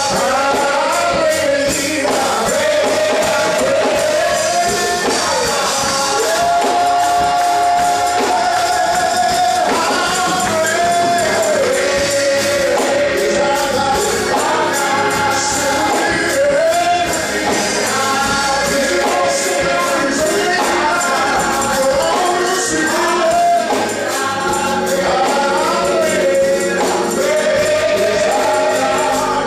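Gospel choir singing with a tambourine shaking along.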